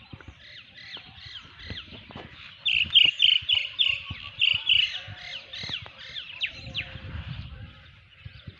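Birds calling: a rapid run of short, sharp, high calls, about four a second, loudest for a couple of seconds from about three seconds in, with scattered quieter calls around them.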